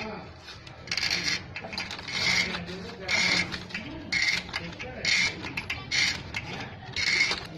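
Hand tool working a metal part in repeated rasping strokes, about one a second.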